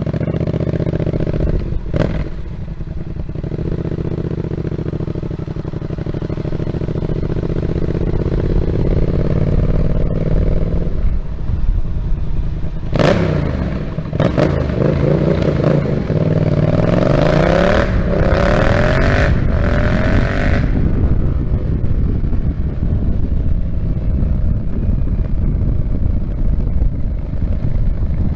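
Yamaha MT-07 parallel-twin engine running through an SC Project aftermarket exhaust while the bike is ridden. The engine pitch climbs slowly at first; about halfway through it revs up and down hard through the gears for several seconds, then settles back to a steady drone with wind rush.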